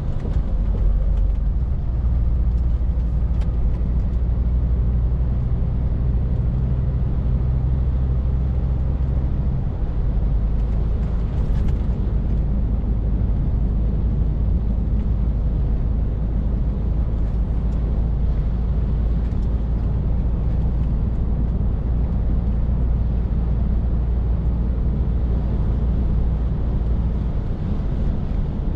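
Scania R450 lorry's 13-litre six-cylinder diesel engine running steadily on the road, a low drone over tyre and road noise. The engine note shifts about ten seconds in and changes again near the end.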